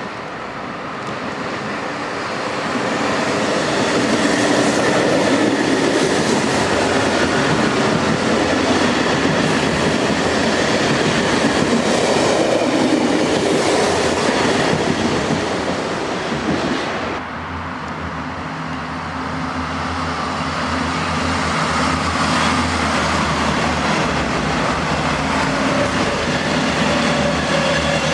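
Electric passenger trains passing at speed: rushing wheel-and-rail noise with rail-joint clatter, loudest from about four seconds and cutting off abruptly at about seventeen seconds. A second train then passes with a steady electric hum under the rail noise.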